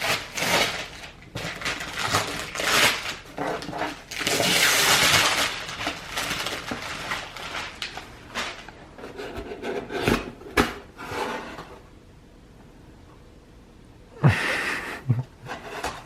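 Gift wrapping being handled and torn open: paper rustling and crinkling in uneven bursts, with the longest, loudest crinkle about four seconds in and a brief lull near the end.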